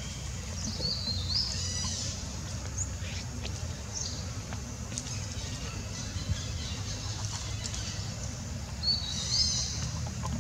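Birds chirping, a quick run of high rising chirps about a second in and another near the end, with a few fainter ones between, over a steady low rumble.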